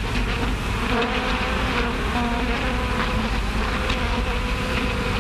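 Bees buzzing: a steady, unbroken hum.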